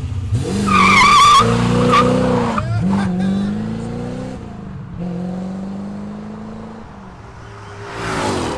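C4 Corvette's 5.7L V8 with a FLOWCHASER muffler accelerating hard away, with a brief tire squeal about a second in. The revs drop and climb again at gear shifts about 3 and 5 seconds in, and the sound fades as the car pulls away, swelling again near the end.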